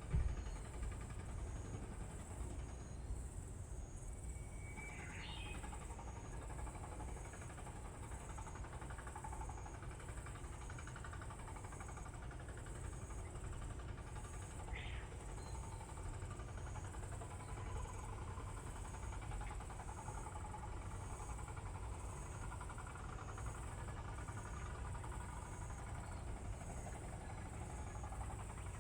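Outdoor ambience on a rainy day: a steady low rumble under a light hiss of rain, with two short high chirps about five and fifteen seconds in.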